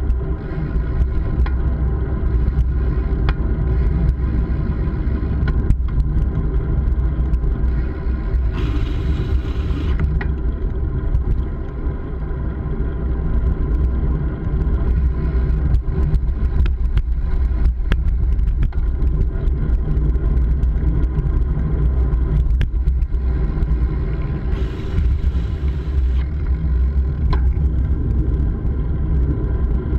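Steady engine and road rumble of a vehicle under way at an even pace, with a short burst of hiss about nine seconds in and again near twenty-five seconds.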